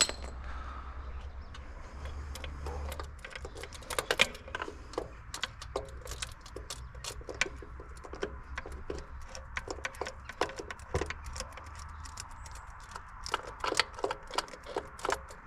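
Irregular metallic clicks and taps of hand tools working against metal parts in a car's engine bay, over a low steady hum.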